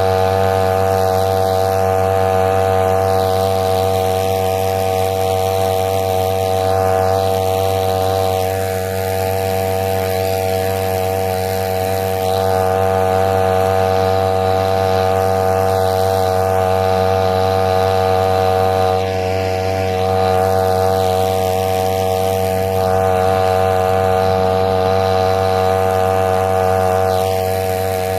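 A small petrol engine running steadily at constant speed, its pitch unchanging throughout.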